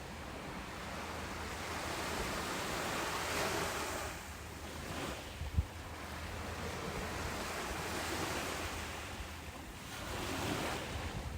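Ocean surf washing onto a beach: a steady rush of breaking waves that swells and eases, louder twice. A brief low gust of wind hits the microphone about halfway through.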